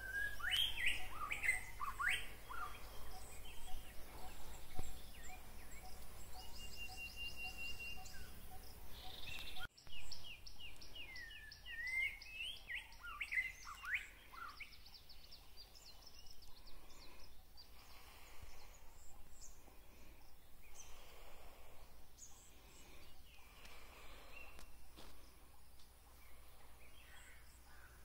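Wild birds calling in the open: repeated downward-sliding calls and quick rattling trills, with a brief break about ten seconds in. The calls grow fainter after about fourteen seconds.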